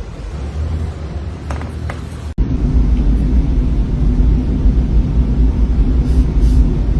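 Low steady rumble that stops abruptly about two and a half seconds in and returns louder, with a steady hum in it.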